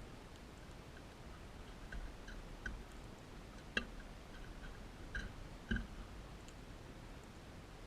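Crimson rosella making scattered soft clicks and short chips, a few per second at most. The loudest comes about four seconds in.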